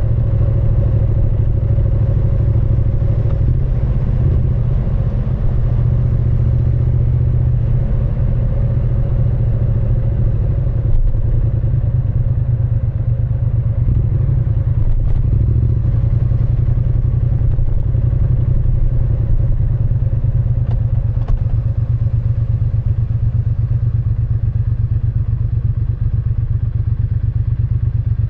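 Triumph Speed Twin 900's parallel-twin engine and exhaust running steadily, with an even, unchanging engine note.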